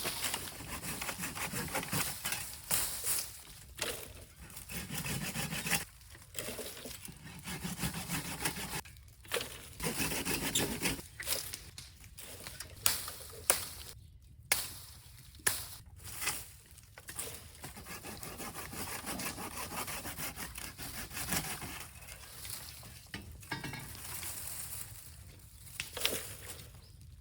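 Scrap wood being handled, with scraping, rubbing and knocking in short irregular stretches and scattered sharp clicks.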